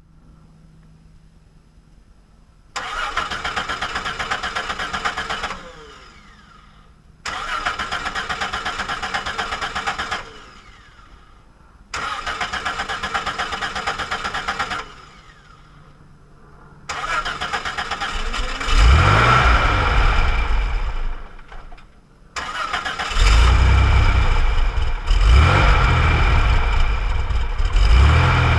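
1965 Corvair Corsa's air-cooled flat-six being cranked by the starter in three separate tries of about three seconds each. On the fourth try, about 17 seconds in, it catches and is revved up and down several times.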